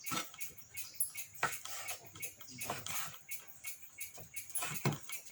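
Irregular light knocks and clicks, like cookware and utensils being handled, over a steady high hiss.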